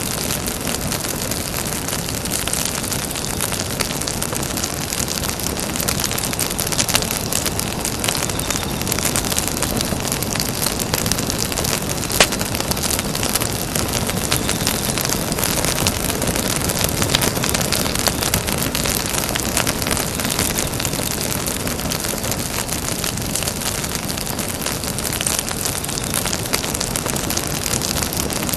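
Campfire burning: a steady hiss of flames with frequent small crackles and pops of the burning wood, and one sharper pop about twelve seconds in.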